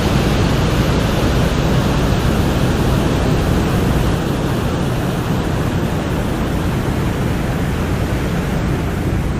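Sonified radio signals from Venus's upper atmosphere, recorded by NASA's Parker Solar Probe, heard as a steady, dense rushing hiss. It drops slightly in level about four seconds in.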